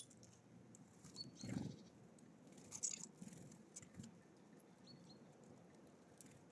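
Small birds at a feeder: scattered light taps and clicks, two brief high double chirps, a soft thump about one and a half seconds in and a short rustle near three seconds.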